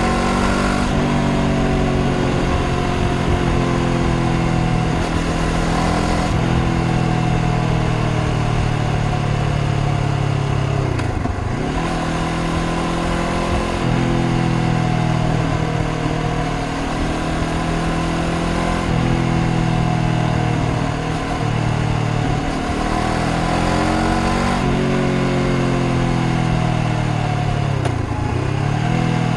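A 2025 Honda CBR500R's parallel-twin engine running under way, its revs gliding up and down, with brief drops in pitch that climb again about 11, 21 and 28 seconds in.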